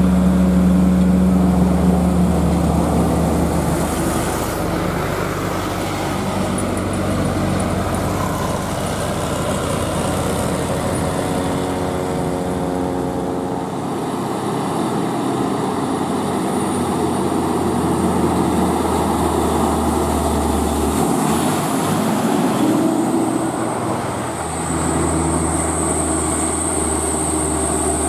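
Engine of a heavily loaded truck labouring up a climb, its revs rising and falling several times.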